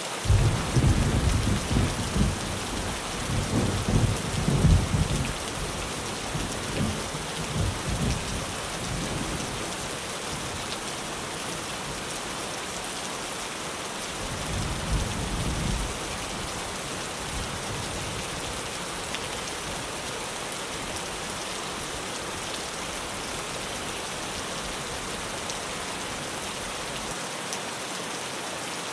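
Steady rain drumming on a tin roof, with thunder rumbling loudly right at the start for several seconds and rolling again more briefly about halfway through.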